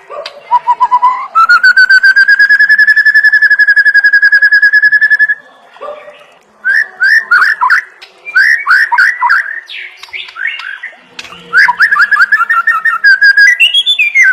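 White-rumped shama singing loudly. It gives a fast trill of rapidly repeated whistled notes for about four seconds, then breaks into bursts of quick, sweeping whistled phrases.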